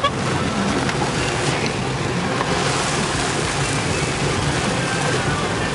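Steady noise of a car driving through heavy rain, heard from inside the cabin: rain on the car body and tyres on the wet road, over a low engine and road hum.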